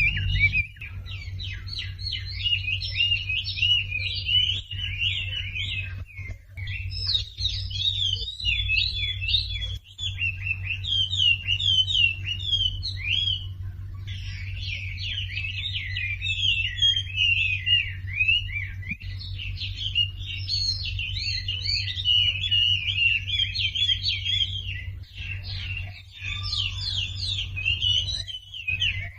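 Wambi birdsong played as a masteran tutor recording: a fast, unbroken stream of high chirps and trilled phrases, breaking off briefly a few times, over a low steady hum.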